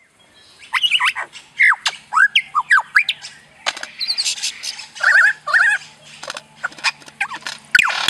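A bird calling in a quick, uneven series of short chirps, each falling in pitch, mixed with a few sharp clicks, starting just under a second in.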